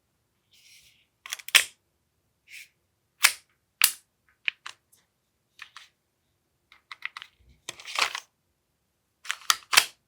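Sharp plastic-and-metal clicks and clacks of an AAP-01 airsoft pistol's bolt being worked and its trigger pulled, about a dozen at irregular intervals, with no gas in the gun.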